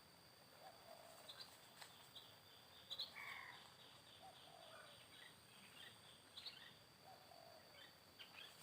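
Faint, scattered short chirps of small birds over a thin, steady high-pitched tone.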